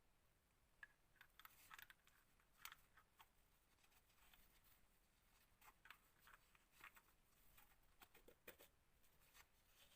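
Near silence with faint, scattered small clicks and taps of metal engine parts being handled as the back plate is fitted onto the crankcase of a Thunder Tiger Pro .21 nitro engine.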